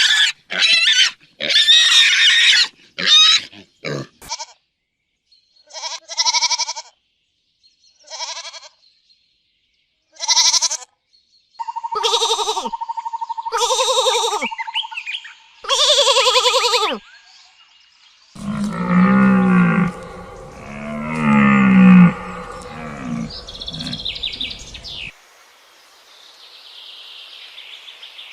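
A run of separate animal calls and cries, short and pitched, with silences between them, followed by lower, deeper calls in the last third.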